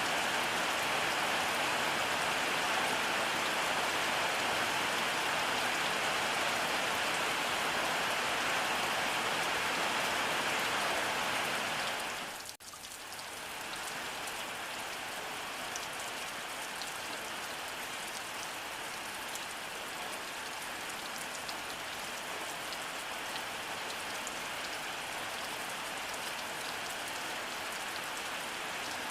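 Steady rainfall: an even hiss of rain with the patter of drops. About halfway through, the sound dips out for a moment and comes back slightly quieter, with more separate drop ticks.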